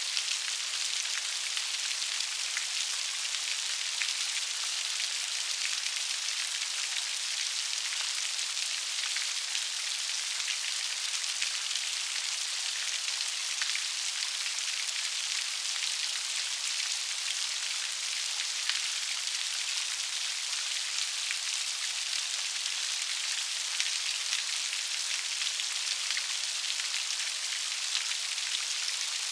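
Steady rain falling, a continuous hiss with a fine patter of individual drops.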